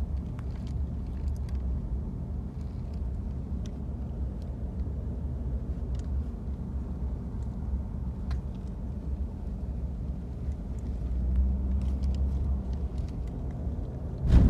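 Steady low rumble of a car driving, heard from inside the cabin, growing a little louder for a couple of seconds near the end.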